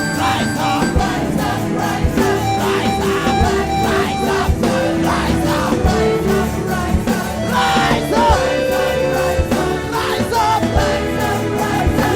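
Live church worship music: a band with guitar, keyboard and a steady beat, with singing over it.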